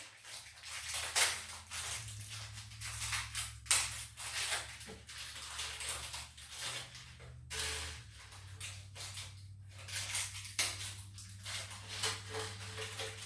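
Irregular light taps, clicks and rustling as small closet-organizer parts (thin gusset plates and little nails) are handled and set in place, over a steady low hum.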